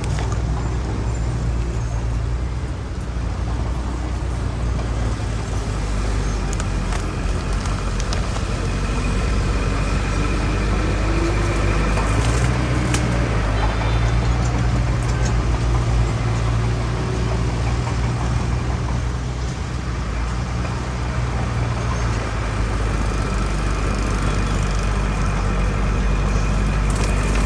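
Heavy diesel earthmoving machine engine running steadily under continuous load, with a faint high whine over the low drone.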